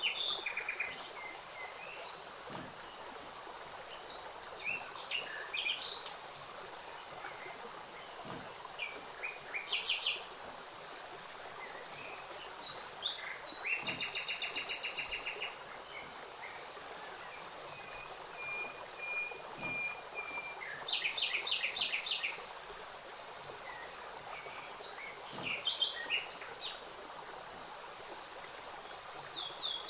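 Small birds singing: scattered chirps and short trills, with a fast rattling trill about halfway through and another about two-thirds through, over a steady hiss.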